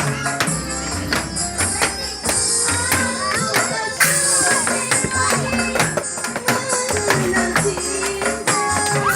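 A live band playing a song through a PA at a sound check: a steady bass beat, sharp percussion strokes and a gliding melody line from a voice or lead instrument.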